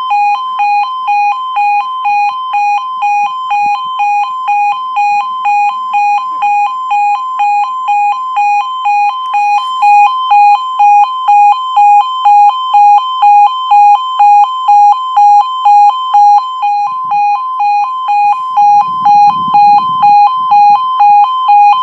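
Level crossing's electronic two-tone warning alarm pulsing steadily, about two pulses a second, the warning given while a train is due at the crossing. It grows louder about ten seconds in.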